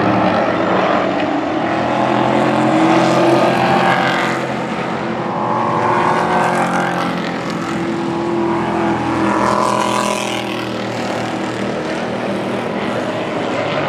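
Several Pro Truck race engines running at racing speed as the field laps the oval, the engine note swelling twice as the pack goes by.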